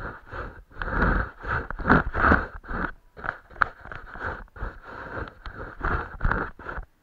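Paintbrush working on paper close to the microphone: a run of irregular scratchy strokes, the loudest about two seconds in and again near the end.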